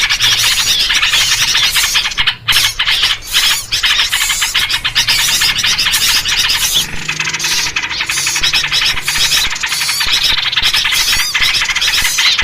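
Dense, continuous chattering and squealing of many small songbirds calling at once, a noisy agitated chorus of the kind used to lure birds. A steady low hum runs underneath.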